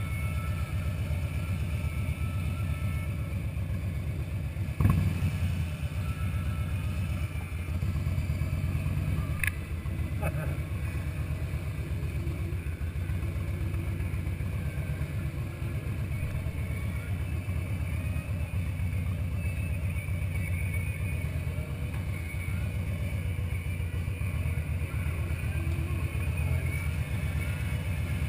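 Harley-Davidson Fat Boy's V-twin engine running steadily while the motorcycle rolls at low speed, with a single sharp knock about five seconds in.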